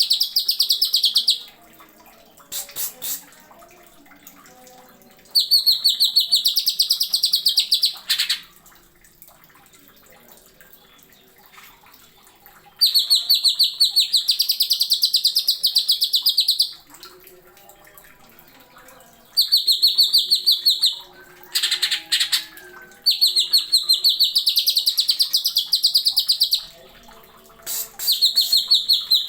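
Green leafbird (cucak ijo) singing in sharp, rapid-fire bursts of fast repeated high notes, each burst one to a few seconds long, about six times with pauses of a few seconds between them. One burst in the middle has a different, falling pattern.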